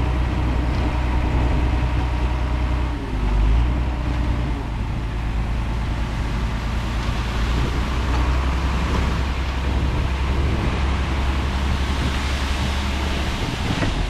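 Heavy diesel earthmoving engine running steadily under load, with a brief change in engine note and a surge about three seconds in.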